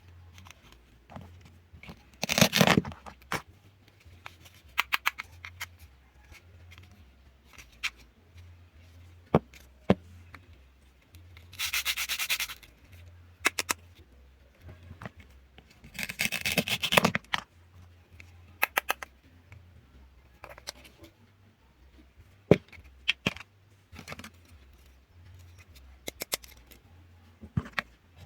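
Toy food being cut and pulled apart: scattered clusters of sharp clicks and taps, with three rasping rubs of about a second each, the loudest near the start and past the middle.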